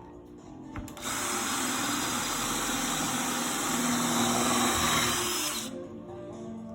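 Power tool running steadily for about four and a half seconds, starting about a second in and stopping suddenly.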